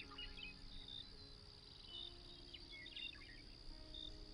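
Faint night-time nature ambience: a steady high cricket trill with scattered short bird chirps.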